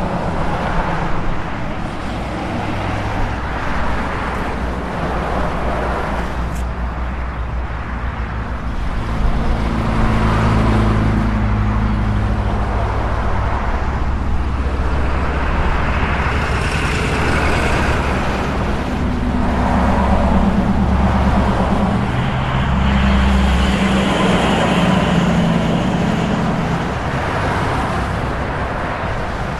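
Road traffic noise: a steady rumble of motor vehicles, swelling louder several times as vehicles pass.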